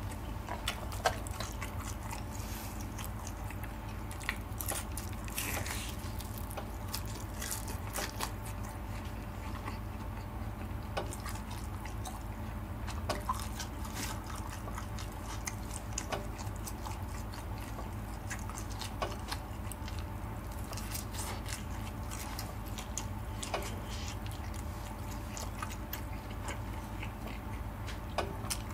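Close-miked chewing and biting of boneless sauce-glazed fried chicken: soft, sticky mouth clicks and smacks scattered throughout, over a steady low hum.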